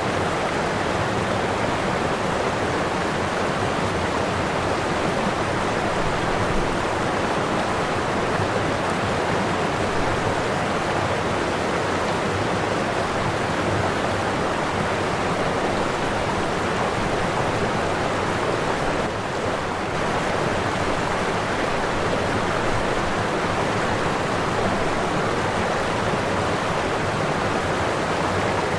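Waterfall: a steady, loud rush of falling water, with a brief slight dip about two-thirds of the way through.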